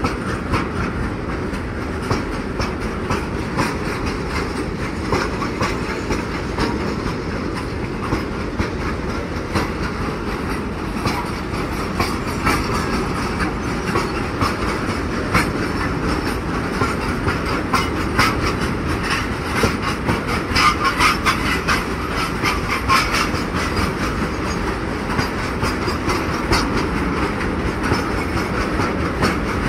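Freight train of bogie tank wagons passing close by at speed: a steady rumble of wheels on rail with continual clicking and clattering as the wheels run over rail joints.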